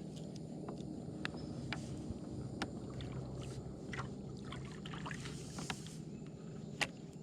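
Sounds of a kayak on the water: a steady low rumble of water against the hull, with scattered light knocks and clicks and a brief splashy hiss about five and a half seconds in.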